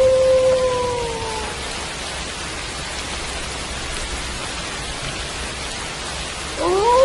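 Steady rain falling, with wolf howls over it. One long howl held near one pitch tails off with a falling end about one and a half seconds in. After a stretch of rain alone, a new howl rises in pitch just before the end.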